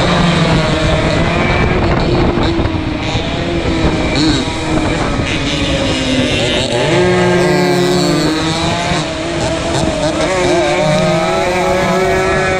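Several two-stroke racing motorcycle engines running hard at once, their pitches rising and falling as the riders rev, shift and back off.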